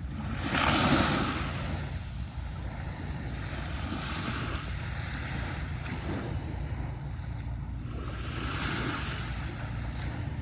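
Waves breaking and washing up a sandy beach, the loudest wash about a second in and softer ones around four and eight and a half seconds, over a steady low rumble of surf.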